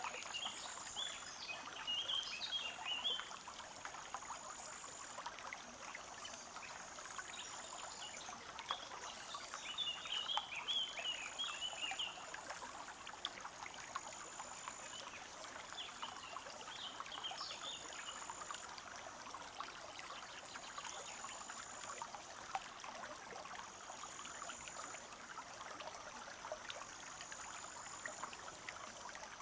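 Small forest stream trickling and babbling steadily over stones. Birds chirp over it in short bursts: a few seconds in, again around ten seconds in, and briefly later. A thin high note repeats about every two seconds throughout.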